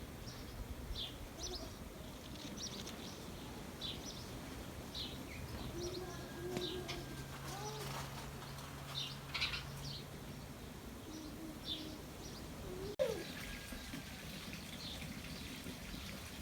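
Small birds chirping, short high chirps every second or so, over a low steady hum that fades out partway through. A single sharp click sounds about thirteen seconds in.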